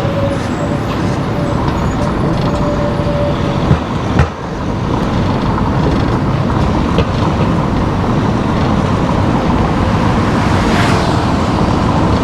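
Car driving through town streets: steady road and engine noise, with two sharp knocks about four seconds in and a brief hiss near the end.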